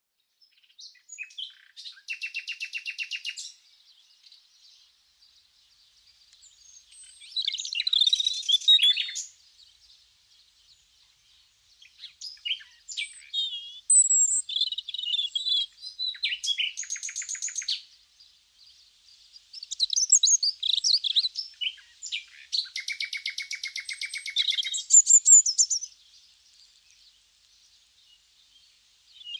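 A songbird singing in phrases of one to several seconds, mixing rapid trills of fast repeated notes with varied chirps and warbles, with short pauses between phrases.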